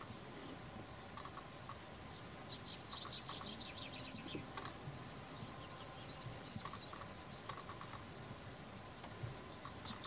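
Small birds chirping: short, high, thin notes repeat every second or so, with runs of quick twittering notes, over a faint steady outdoor hiss.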